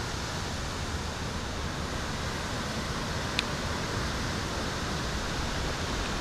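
Strong wind of an arriving thunderstorm's gust front blowing steadily, with one short sharp click about three and a half seconds in.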